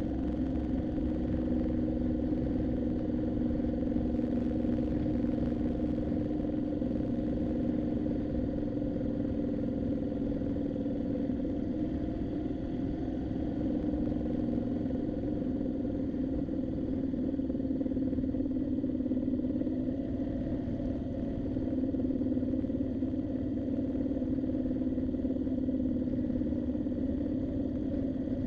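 Motorcycle engine running at a steady cruise with a low road rumble, its pitch holding fairly even with only small rises and falls.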